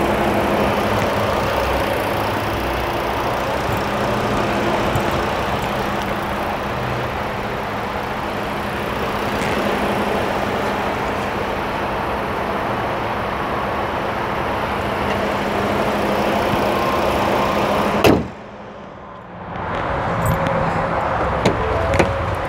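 Ford Edge four-cylinder engine idling, a steady hum under the open hood. Late on, one sharp loud slam, consistent with the hood being shut, after which the sound drops away, then a few light clicks as a car door is opened.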